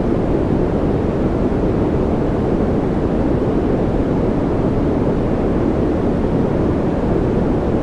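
Steady white-noise track for focus and calm: an even, low rushing noise with no changes or events.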